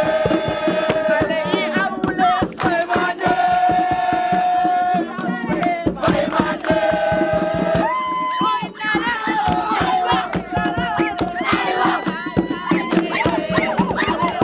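A crowd singing and shouting a group chant, with some long held notes, over a fast percussive beat.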